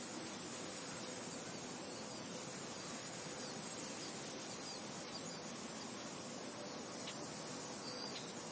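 Steady wind noise, an even hiss with no gusts or breaks, with a few faint short high chirps over it, most of them near the end.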